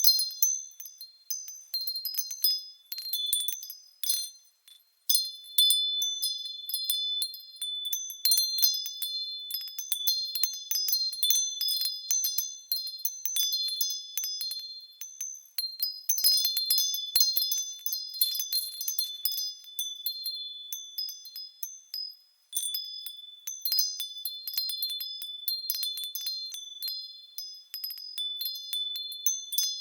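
Japanese fūrin wind bells swinging in the wind, their clappers striking at irregular intervals. Several high, clear ringing tones come in quick clusters, with a couple of brief lulls.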